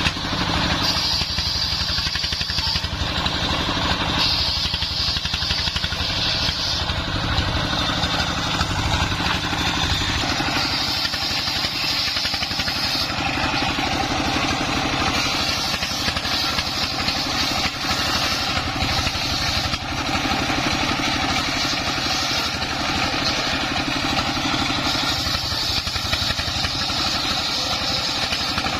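Dongfeng 24 hp diesel engine running steadily, driving a homemade circular sawmill. A higher-pitched saw sound comes and goes several times over the engine, in stretches of a few seconds, as the blade cuts the wood.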